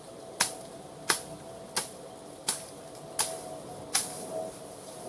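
Six sharp clicks, evenly spaced about every 0.7 seconds, over a faint steady tone.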